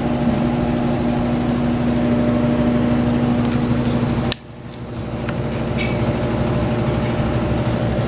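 A steady mechanical hum with several fixed low tones and a few faint clicks. It cuts out abruptly about four seconds in, then fades back up over a second or so.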